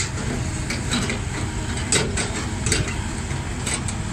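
Heavy diesel engine running steadily, with a series of short sharp clicks and knocks on top of it.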